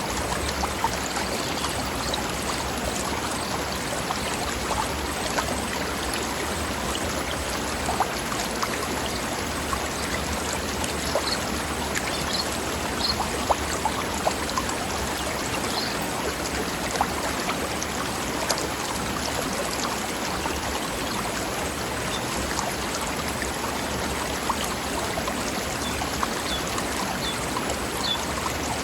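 Forest stream running steadily over rocks, a constant babbling rush of water. A few brief high chirps sound now and then over it.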